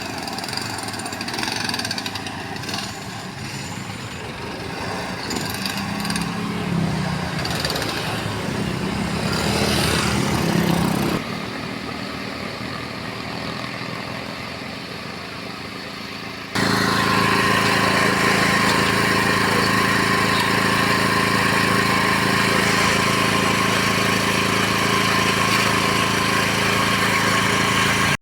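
Engines running at road works, with a shifting mix of machine and traffic noise. Past the middle it switches abruptly to a louder, steady engine drone that holds one pitch.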